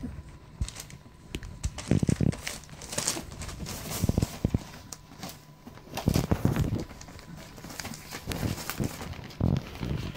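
Puppies scuffling and moving about, with irregular rustling, claw clicks and a few dull bumps.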